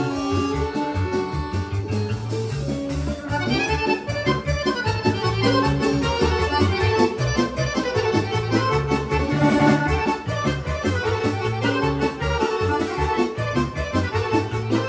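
Serbian kolo dance music: an accordion leads with quick running melodic lines over a steady, driving bass-and-chord beat.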